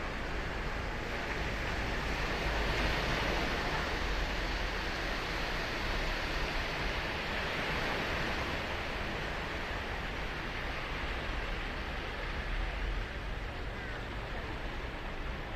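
Ocean surf breaking and washing up the beach: a steady rushing noise that swells a little a few seconds in and again around the middle.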